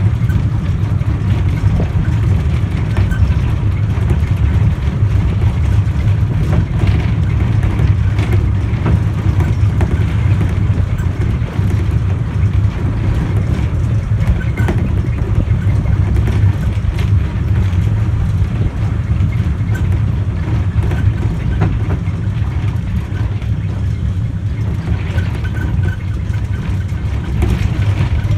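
Small electric mountain train running, heard from inside the carriage: a steady low rumble of the motors and wheels on the rails.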